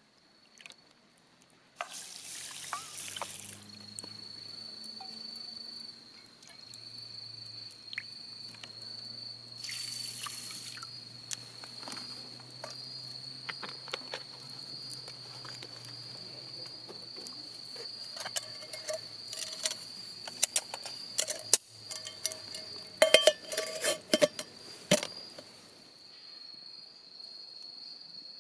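A steady, high insect trill, cricket-like, runs throughout. Over it come light metallic clinks and clatters of camp cookware, loudest in a cluster about two-thirds of the way through. There are also two short hissing rushes, one about two seconds in and one about ten seconds in.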